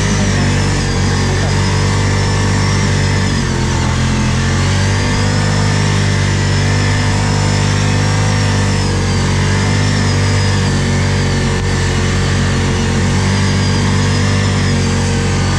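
ATV engine running steadily under throttle, its pitch dipping and rising slightly a few seconds in, with a thin high whine wavering above it.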